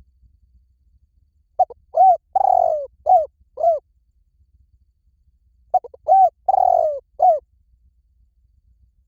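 Spotted dove cooing: two phrases of about five low coos each, with a longer drawn-out note in the middle of each phrase, about four seconds apart.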